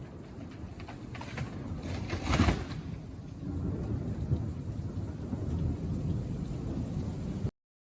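Thunder rumbling under steady rain, with a louder clap about two and a half seconds in. The sound cuts off abruptly near the end.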